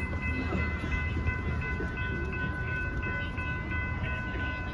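Lynx light rail train at a grade crossing: a steady low rumble of the train, overlaid by a group of high, steady electronic tones that switch on and off at a quick, regular beat.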